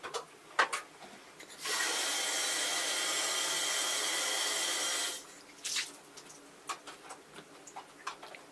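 Tap water running into the humidifier's water tank for about three and a half seconds, filling it. Short knocks and clicks of the tank being handled come before and after the water.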